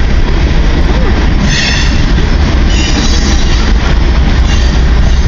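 Long CN freight train rolling past, the steady rumble and rattle of its cars on the rails, with brief wheel squeals about one and a half and three seconds in.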